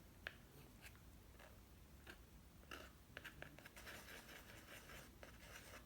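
Faint soft taps and scraping of a paintbrush mixing acrylic paint on a palette, busiest partway through.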